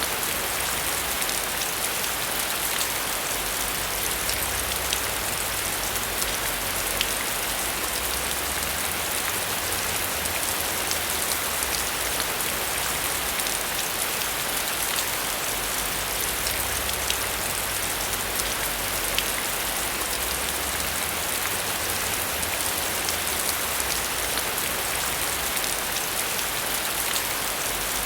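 Steady heavy rain, a dense even hiss with many individual drops pattering and ticking throughout.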